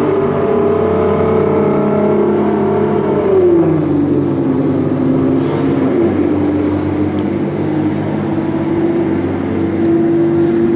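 Nissan GT-R R35's twin-turbo V6 with a straight-pipe exhaust running at steady revs, falling in pitch about three seconds in as the revs drop, then climbing slowly again.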